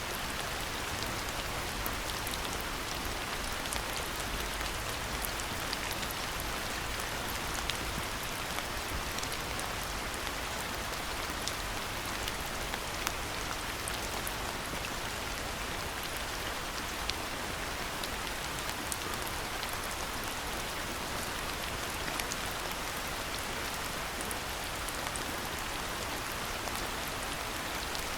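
Steady rain falling, with many individual drops ticking sharply through the even hiss of the downpour.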